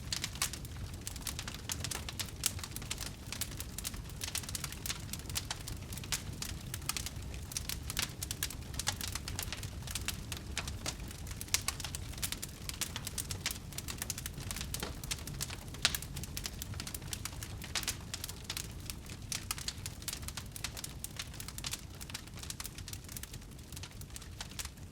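Wood fire crackling in a fireplace: many small pops and snaps over a steady low rumble of burning.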